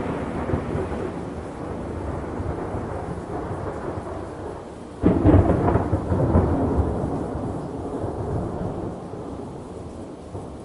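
Deep rumbling noise that fades slowly, with a sudden louder rumble about halfway through that dies away over a few seconds.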